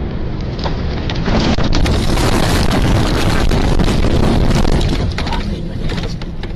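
Heavy crash of a large truck: a loud, continuous rumbling and crunching, peppered with many sharp cracks, loudest in the middle.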